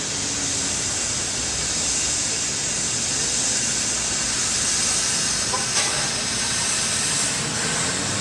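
A loud, steady hiss with a single faint click about six seconds in.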